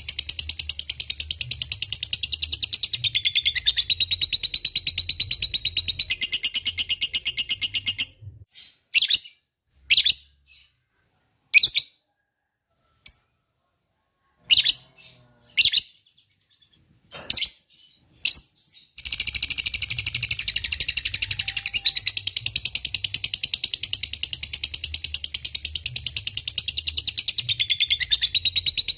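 Lovebird 'ngekek': a long run of rapid, high-pitched chattering calls. It breaks off about eight seconds in to scattered single chirps with gaps, then resumes the rapid chatter about nineteen seconds in.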